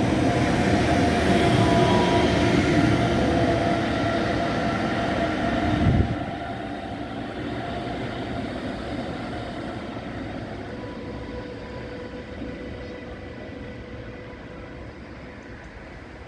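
An Intercity train pulling into the station, with loud rumbling and rail noise and a few steady whining tones. About six seconds in the noise drops suddenly, then fades slowly.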